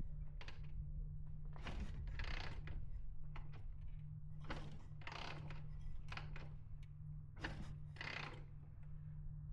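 Harley-Davidson V-twin motorcycle engine idling with a steady low hum, under irregular short clicks and rattles of handling and clatter.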